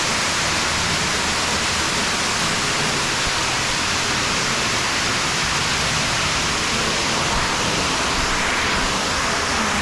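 Waterfall, a loud, steady rush of falling water with no break or change.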